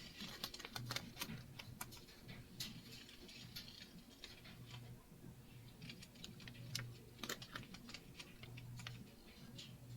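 Faint, irregular light clicks and rustles of hands working a sheet of permanent vinyl onto a misted glass cutting board.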